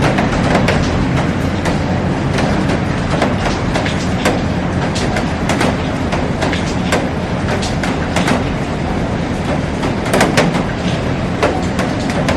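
Heavy rain falling steadily on a glass roof and garden: a dense hiss scattered with many sharp drop hits.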